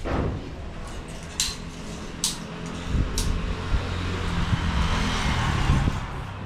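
An engine running with a low hum, swelling louder and then fading near the end. Three sharp clicks come about a second apart, starting about a second and a half in.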